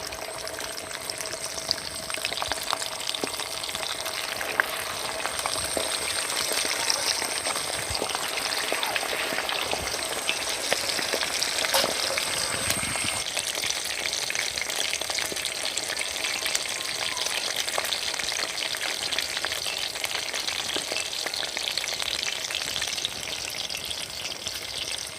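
Marinated quail frying in hot oil in a pan: a steady sizzle full of fine crackles and pops.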